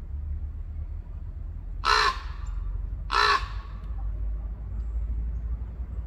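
A bird gives two short, harsh calls about a second apart, over a steady low rumble.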